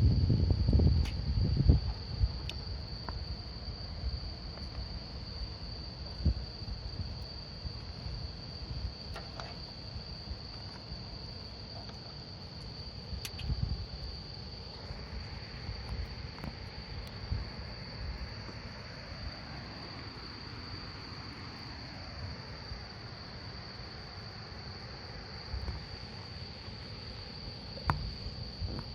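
Crickets chirring in one steady high trill over a crackling campfire, with scattered sharp pops from the burning wood, louder in the first two seconds. Through the middle stretch a faint wavering whistle rises and falls, typical of steam or gas escaping from burning wood.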